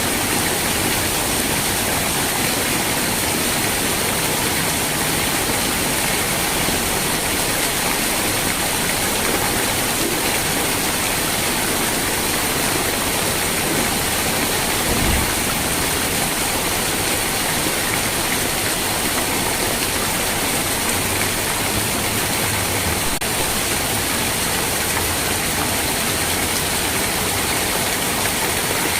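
Steady heavy rain, an even unbroken hiss of falling water. There is a brief low thump about halfway through.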